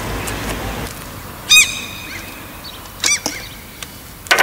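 A bird calling: three short, high calls about a second and a half apart, the last the loudest, after a low rumble that stops about a second in.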